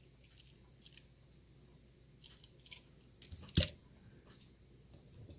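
Small clicks and crinkles of a die-cast toy car and its plastic packaging being handled, with one louder sharp knock a little past halfway.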